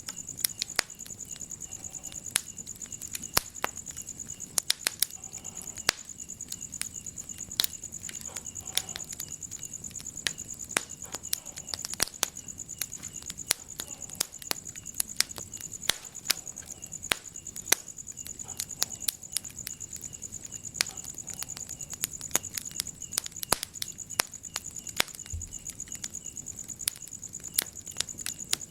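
Wood fire crackling in a fireplace, with irregular sharp pops and snaps several times a second, some much louder than the rest. A steady high-pitched trill runs underneath.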